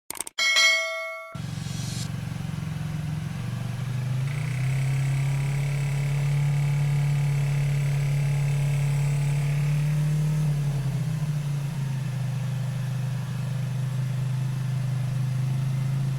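A short chime, then a motorcycle engine idling steadily, its speed rising a little about four seconds in and settling back down near eleven seconds.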